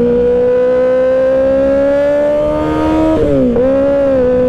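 2024 Kawasaki Ninja ZX-6R's 636 cc inline-four engine under way, its note rising slowly for about three seconds. The revs then drop briefly and level off at a steady pitch.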